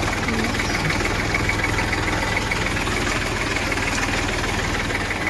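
Tractor diesel engine running steadily with an even, fast pulsing beat.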